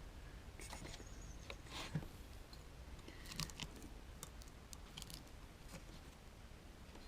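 Faint, scattered clicks and light knocks, about a dozen at uneven intervals, of parts being handled, with the loudest knock about two seconds in.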